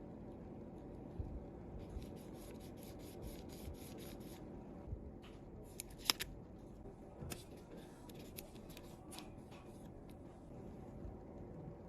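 Small hand tools clicking against a phone on a repair bench: a quick run of about ten light clicks, roughly five a second, then scattered clicks with one sharper one a little past halfway.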